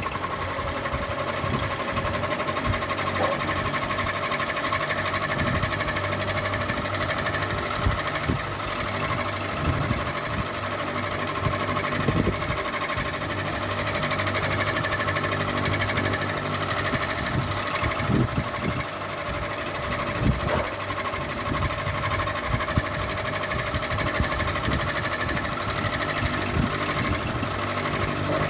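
Ceiling fan running, its motor giving a steady hum with a few fixed tones above it and irregular light knocks or clicks throughout.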